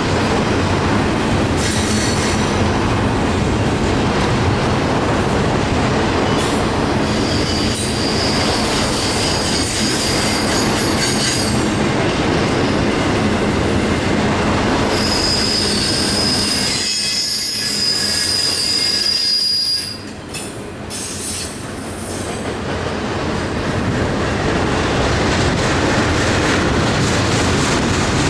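Freight train cars rolling past with steady wheel rumble and clatter. Flanges squeal high-pitched twice, about 8 seconds in and again more strongly from about 15 to 20 seconds in.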